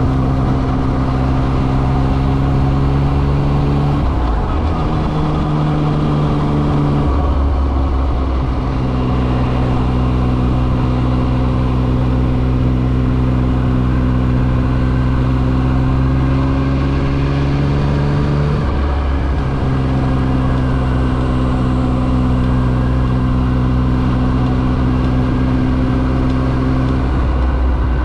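Yamaha XSR900's inline three-cylinder engine running on the move at a steady pitch that rises slightly between shifts. It is broken by brief gear changes about four seconds in, about seven seconds in, around eighteen seconds and near the end.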